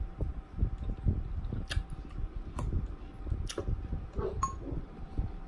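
Close-up chewing of crisp salad, heard as steady irregular low crunching. Through the middle there are four or five sharp clicks of a plastic fork against a glass bowl, one with a short glassy ring.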